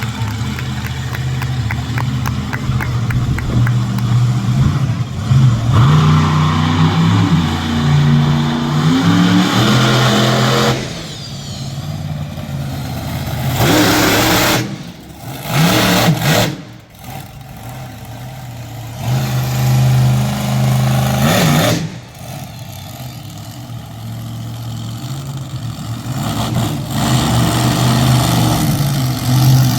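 Monster truck engine running and revving repeatedly, its pitch rising and falling, with a few abrupt breaks where the sound drops away and returns.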